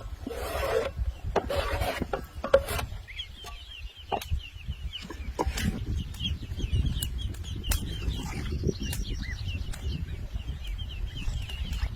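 Chickens clucking, then a rapid run of short, high chirps from about three seconds in, over a steady low rumble.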